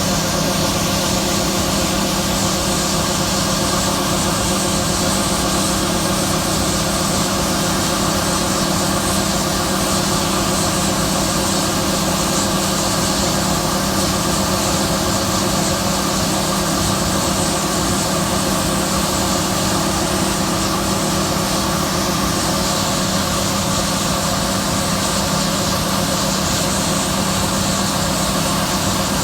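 John Deere combine running steadily while harvesting soybeans: the engine and threshing machinery make an even, unbroken drone with a steady low hum.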